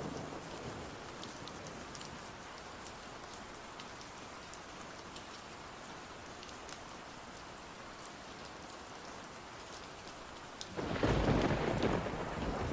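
Steady rain with scattered small crackles from a fireplace. Near the end a sudden rumble of thunder breaks in and becomes the loudest sound.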